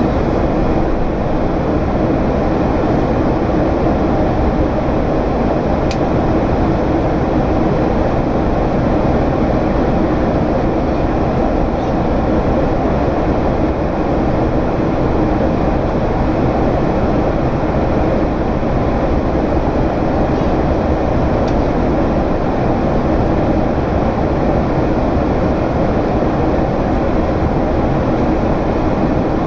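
Steady cabin drone of a Boeing 767's General Electric CF6 turbofans in climb, an even rumble with a faint steady hum, and a single faint click about six seconds in.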